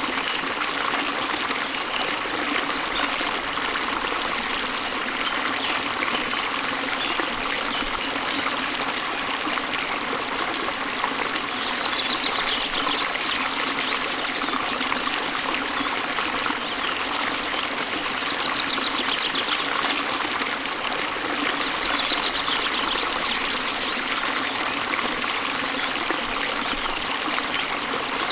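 Steady rush of flowing, falling water from a waterfall and stream, with faint high bird trills a few times in the second half.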